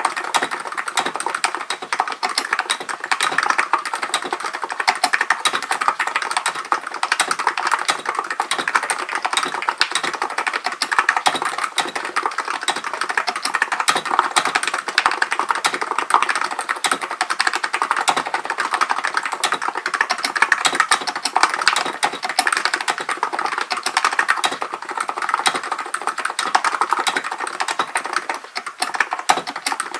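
Hansung GK898B electro-capacitive keyboard being typed on steadily, a dense stream of rapid keystrokes with a short lull near the end.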